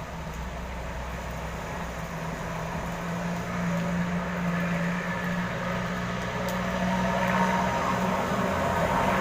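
Road traffic: a steady low engine hum with the wash of passing vehicles, gradually getting louder.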